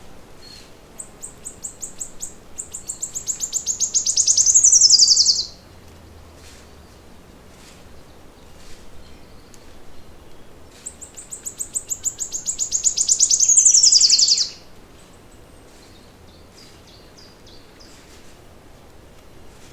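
A songbird singing two long trilled songs about ten seconds apart. Each is a fast series of high notes that grows louder and ends in a falling flourish. Fainter chirps from other birds sound in between.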